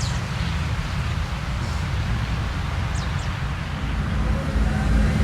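Motorcycle engine running with a low rumble, getting louder about four seconds in.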